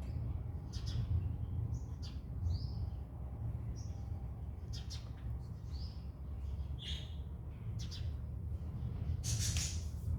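Small birds chirping in short, scattered calls over a steady low rumble, with a brief noisy rush near the end.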